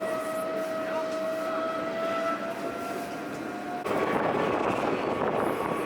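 A steady mechanical whine from a vehicle, sinking slowly in pitch, that breaks off suddenly about four seconds in. A louder, even rushing noise follows.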